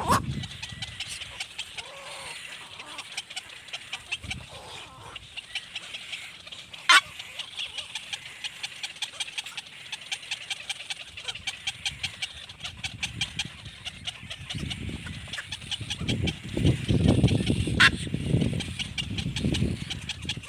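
Baby birds cheeping rapidly and steadily, about five short high cheeps a second. A sharp falling whistle comes twice, and louder, lower calls join in the last few seconds.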